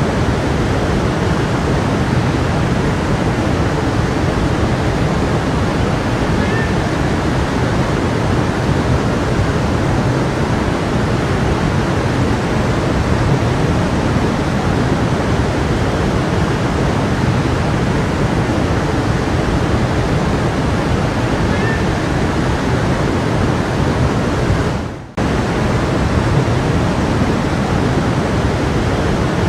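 Stream water flowing steadily. The sound fades out briefly and cuts back in about four seconds before the end.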